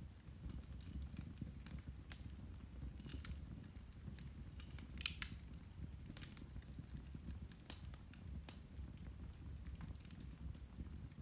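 Irish turf (peat) fire crackling: scattered sharp pops and ticks over a low steady rumble, with one louder pop about five seconds in.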